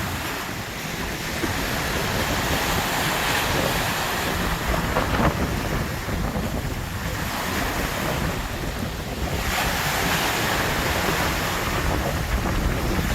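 Sea waves breaking and washing on a beach, the surf noise swelling twice, with wind buffeting the microphone.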